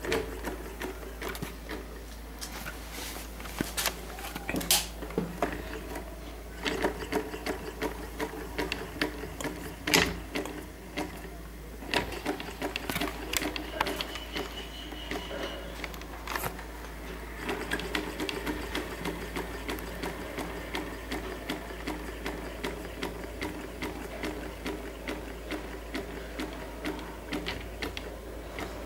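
Small homemade test-tube Stirling engine running, a fast light mechanical clatter from its crank, linkages and flywheel, with a few sharp knocks in the first half. It is still warming up and running stubbornly until the test tube gets hot enough, and evens out from about two-thirds through.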